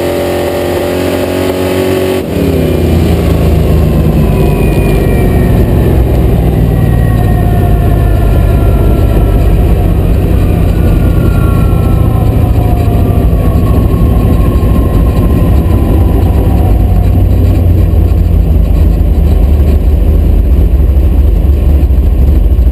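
Inside the cabin of a 1972 Dodge Dart drag car coasting down after its pass: the engine, loud, running at low revs with a heavy rumble, changing abruptly about two seconds in as the revs drop. A thin whine falls steadily in pitch over the following ten seconds as the car slows.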